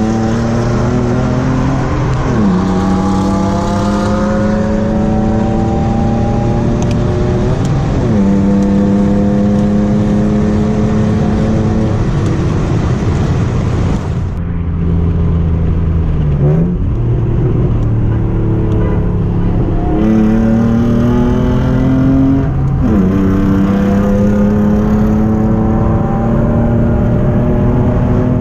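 Car engine under hard acceleration. Its pitch climbs and then drops sharply at each upshift, over several gear changes. About halfway it eases off briefly, then pulls through the gears again.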